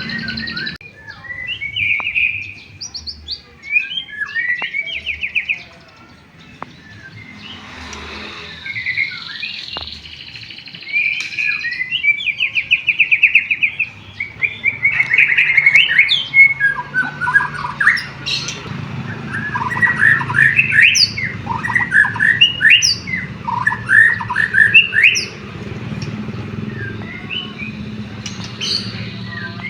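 White-rumped shama (murai batu) singing a long, varied song of whistled notes, fast trills and chirps, with canary-style phrases worked in.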